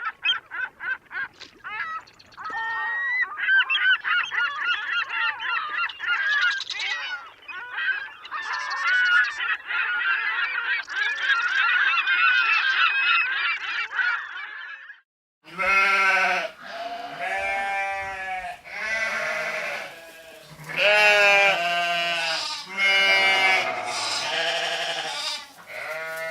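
A flock of geese honking and cackling in a dense, overlapping chatter for about fifteen seconds. After a brief gap, a series of long, drawn-out bleats follows, with short pauses between them.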